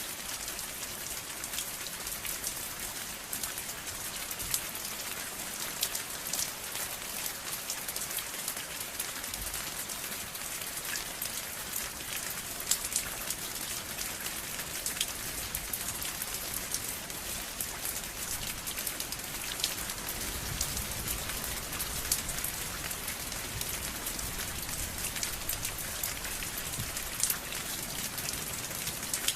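Steady rain falling on a surface, an even hiss with many separate drops ticking and an occasional louder drop.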